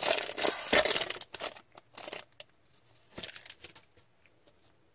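Foil wrapper of a hockey card pack crinkling as it is torn open, loud for the first second and a half, then a few softer crinkles and ticks.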